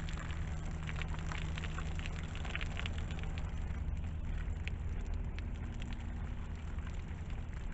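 A plastic water jug from a bullet test being handled and searched for fragments: dense crackling and small clicks that thin out about halfway through, over a steady low rumble.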